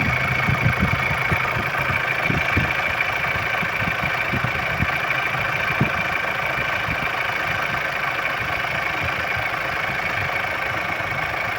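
Ford engine idling steadily, with scattered irregular low knocks, most of them in the first half.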